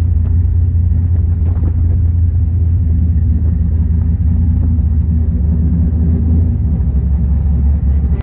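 Sports car's engine rumbling steadily at low revs as the car rolls slowly, a deep, even drone with no rise in pitch.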